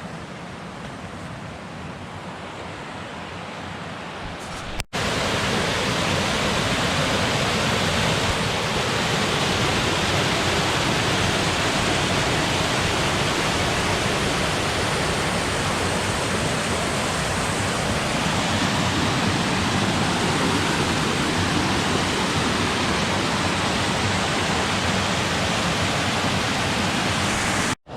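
Steady rush of falling water from a creek waterfall. It is softer for about the first five seconds, then cuts abruptly to a much louder, fuller rush that holds steady until another abrupt cut near the end.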